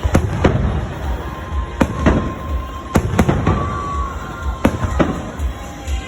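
Aerial fireworks bursting in an irregular series of sharp bangs, about a dozen in six seconds, each echoing briefly.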